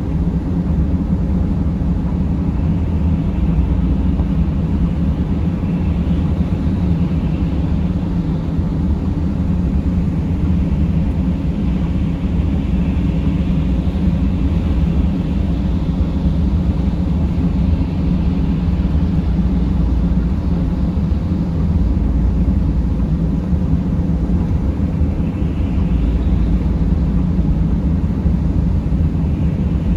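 Steady low rumble of a Mercedes Sprinter van on the move, engine and road noise heard from inside the cabin.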